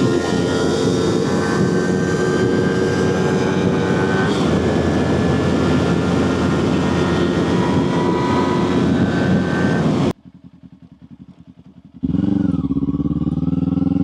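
Kawasaki Ninja 400's parallel-twin engine running under way, with small steps in pitch a second or so in and again about four seconds in. About ten seconds in the sound drops suddenly to a quiet stretch, and near the end the engine is loud again, its pitch rising and falling.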